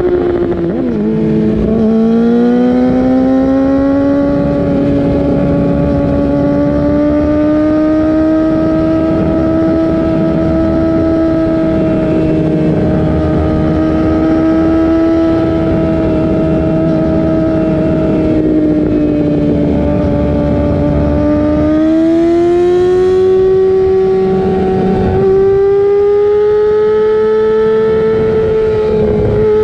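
2018 Yamaha R6's inline-four engine running through an Akrapovic Evolution GP full titanium exhaust, holding steady high revs. The pitch dips about a second in, stays level for about twenty seconds, then climbs and holds steady again near the end.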